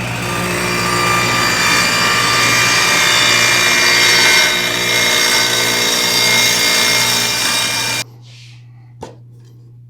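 Table saw running with its blade being raised up through a new masonite-topped insert, cutting the zero-clearance kerf. The saw noise cuts off suddenly about eight seconds in, followed by a single faint click.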